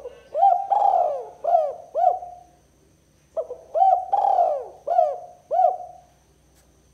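Spotted dove cooing: two phrases of about five gliding coo notes each, the second phrase starting about three and a half seconds after the first.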